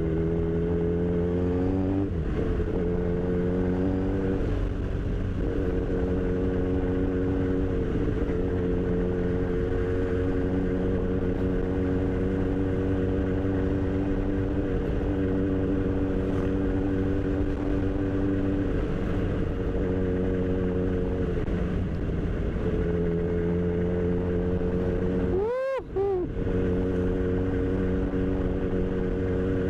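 Kawasaki Z1000 inline-four motorcycle engine running on the road, holding a steady note that steps up and down in pitch with the throttle several times. About 26 seconds in, the note dips sharply and swings back up.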